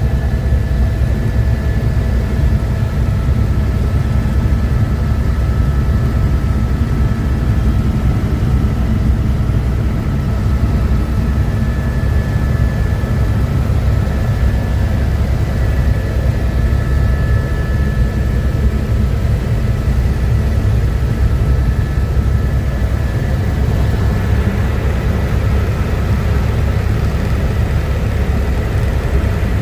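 Helicopter in flight: loud, steady engine and rotor noise, deep and unbroken, with a few faint steady whines above it.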